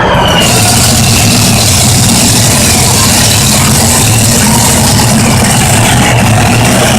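Engine of a modified pulling tractor running at full throttle under load during a pull, very loud and steady with a deep, even drone.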